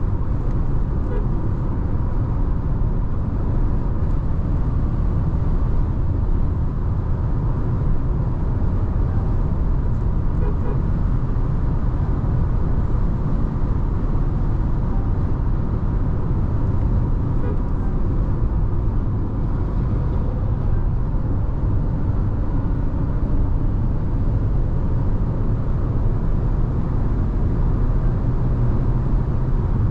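Nissan Tekton 1.3-litre turbo petrol SUV on the move: a steady low rumble of road, wind and engine noise at an even speed.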